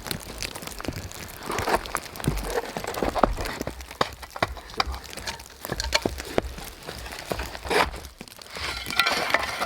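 Boughs being handled and laid down for a bed, rustling and crackling with many small irregular snaps.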